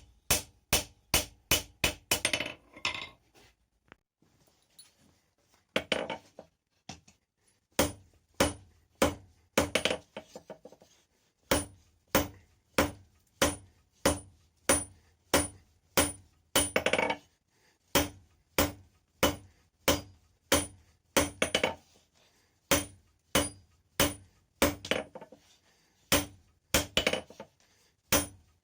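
Hand hammer striking rebar stock on an anvil during forging: a steady run of ringing blows, about two a second, with a short pause a few seconds in.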